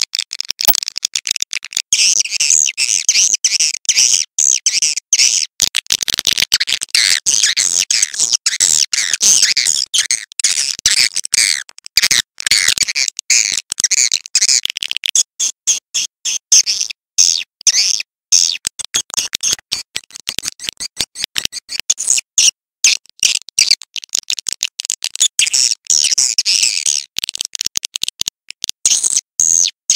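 Recorded swiftlet calls, the kind of track played to lure swiftlets into nesting houses: dense high-pitched twittering chirps chopped into rapid short bursts with constant tiny gaps.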